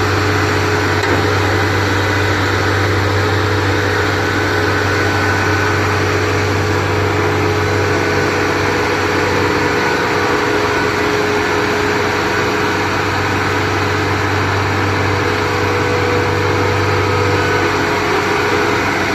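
Kubota DC70 Plus rice combine harvester's diesel engine running steadily at a constant speed, a loud, even hum that neither rises nor falls.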